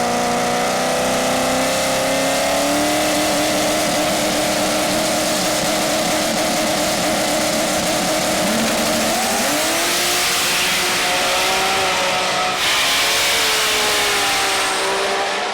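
Race car engine running at a high, steady pitch, then revving higher about nine seconds in, followed by a rushing noise that changes abruptly near the end.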